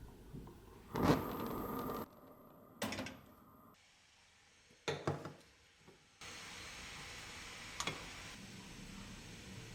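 A few separate knocks and clatters of objects being handled, heard in short clips with abrupt cuts between them. A steady faint hiss runs through the second half.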